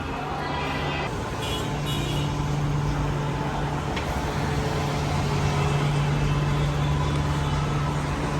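Electric commuter train's steady low motor hum and running noise, gradually growing louder.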